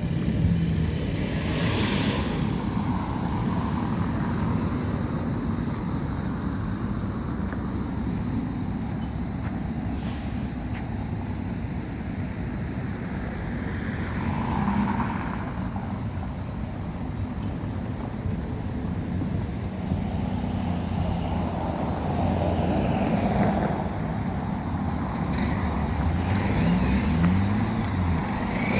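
A motor vehicle's engine running, a steady low rumble, with a few brief changes in pitch near the end.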